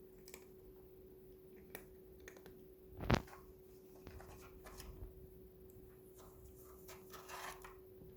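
Cats pawing at a cardboard toilet-paper-tube treat toy: scattered light taps and rustling, with one louder thump about three seconds in, over a faint steady hum.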